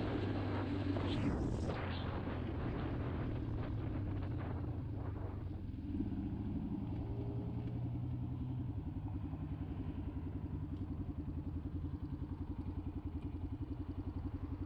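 Motorcycle engine running while the bike is ridden, then easing off about six seconds in and settling into a steady, evenly pulsing idle.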